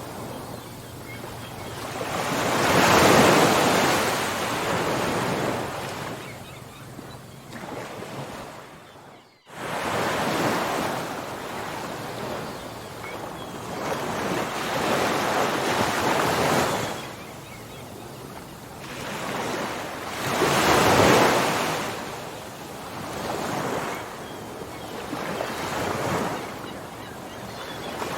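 Ocean waves breaking and washing up a shore, a rushing surge that swells and fades every few seconds, with the biggest breaks a few seconds in and again about two-thirds through. A third of the way in, the sound briefly cuts out and then resumes.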